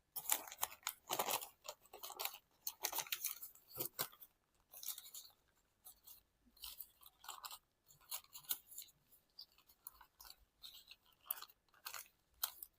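Origami paper crinkling and rustling in the hands as it is stretched and folded: irregular dry crackles, busiest in the first few seconds.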